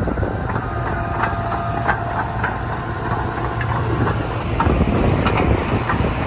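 Komatsu D31P crawler bulldozer's diesel engine running steadily, with irregular clicks and clanks from its running gear; it grows a little louder about four and a half seconds in.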